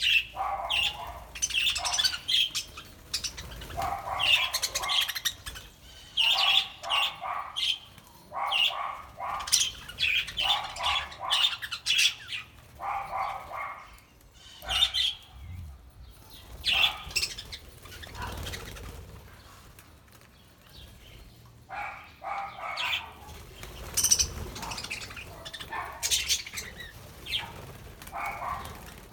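A flock of budgerigars chirping and chattering in short warbling bursts, with wings flapping at times. The calls come in quick clusters, with a quieter spell a little past halfway.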